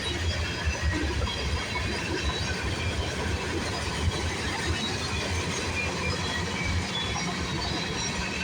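CN freight train's cars rolling past on the rails: a steady rumble with irregular wheel knocks and faint high squeals.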